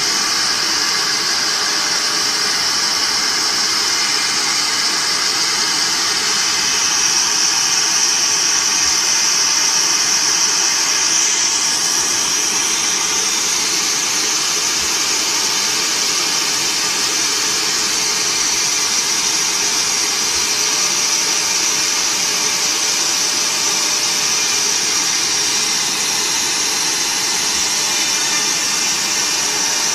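Multi-head CNC router running, with a steady high-pitched whine from its spindles over constant machine noise.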